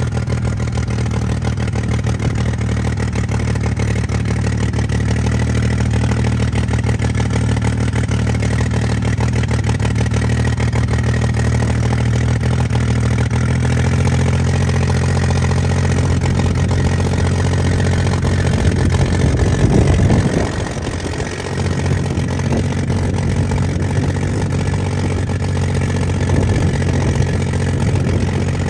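A vehicle's engine running steadily under way, with a brief change in engine note and a dip in loudness about two-thirds of the way through.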